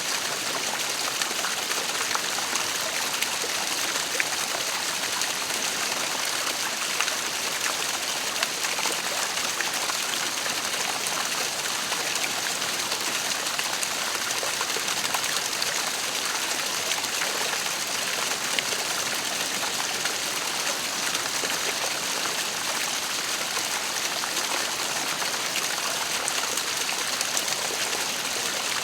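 Waterfall running steadily: a constant rush of falling, splashing water, bright and hissy, with fine crackles of spray.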